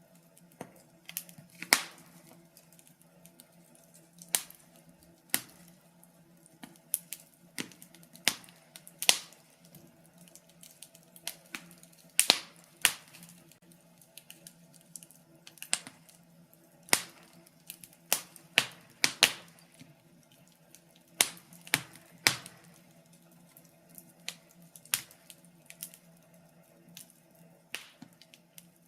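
Wood fire crackling: irregular sharp pops and snaps from burning logs, several a second at times, over a faint steady low hum.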